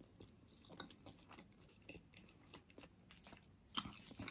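A person chewing a juicy pork momo close to the microphone: faint, scattered wet mouth clicks and smacks, with a couple of louder smacks near the end.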